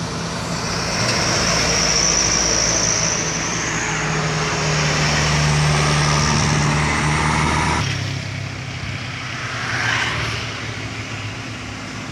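Overloaded sugarcane truck's diesel engine running hard at full throttle, a steady loud drone. About eight seconds in the sound changes abruptly, and a brief rush swells and fades near ten seconds.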